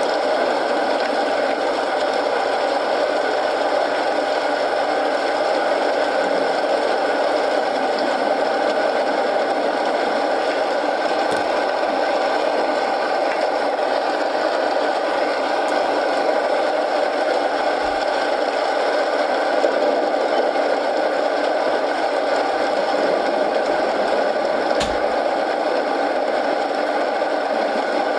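Steady rain mixed with a crackling wood fire, with a few sharp pops from the fire.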